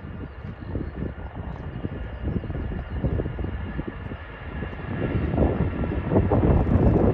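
Jet airliner engines running, a low rumble with a faint high whine, growing louder from about five seconds in as the plane comes closer.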